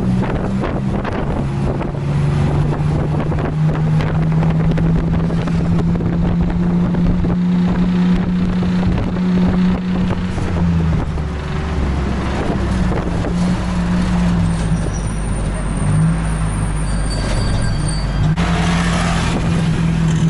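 Long-tail boat's engine running loud and steady under way, its pitch dropping for a few seconds about halfway through and rising again near the end.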